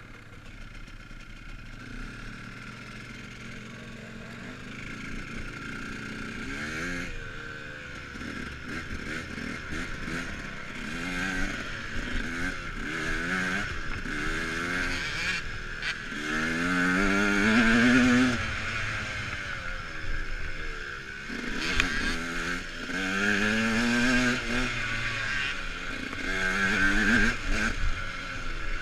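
KTM dirt bike engine accelerating in repeated surges, its pitch climbing and dropping back again and again. It runs quieter and steadier for the first six seconds or so.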